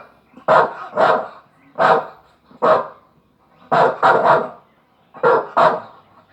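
A dog barking, about nine short barks, some in quick pairs, with brief pauses between them.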